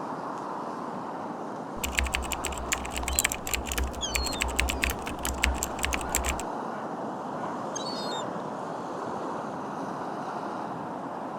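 Steady outdoor hiss with small birds chirping a few times. From about two seconds in to past the middle, a quick run of sharp clicks and knocks with dull thuds comes close to the microphone, then stops.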